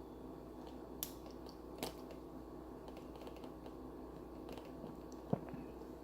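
A few sparse computer keyboard clicks, about one, two and five seconds in, over a faint steady hum.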